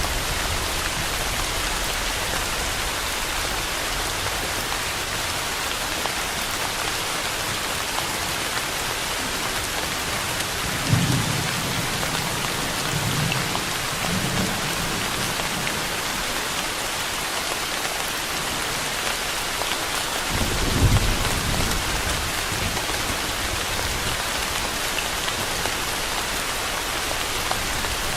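Steady rain hiss, with low rumbles of thunder: one about eleven seconds in that rolls on for a few seconds, and a shorter one about twenty seconds in.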